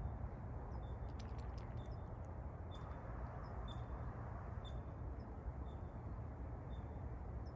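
A small bird gives a short, high chirp about once a second, repeating evenly, over a steady low background rumble. A quick run of faint clicks comes about a second in.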